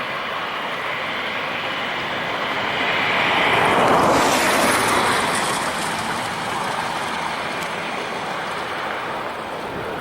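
Jet airliner engine noise, a broad rushing roar that swells to a peak about four seconds in and then eases off again.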